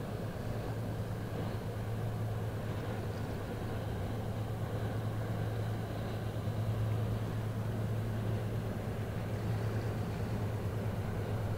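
Diesel engine of an inland cargo ship on the river, a steady low drone that holds even throughout.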